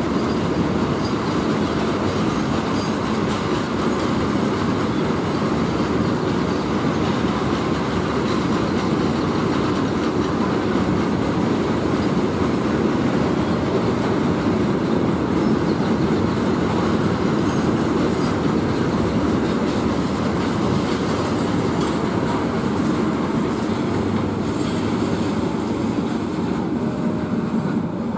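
Long freight train of stone-carrying wagons rolling past, its wheels clattering steadily over the rail joints. The noise eases a little near the end.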